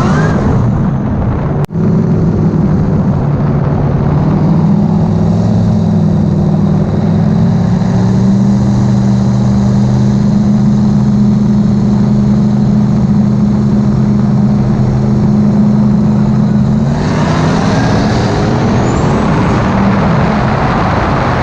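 Modified 2003 Ford Mustang Cobra V8 running at steady, slowly climbing revs. About seventeen seconds in, its sound changes to a louder rushing noise with shifting pitch.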